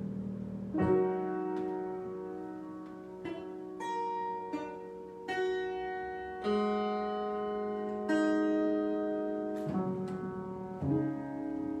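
Slow improvised solo piano: chords and single notes struck every second or two and left to ring out and fade.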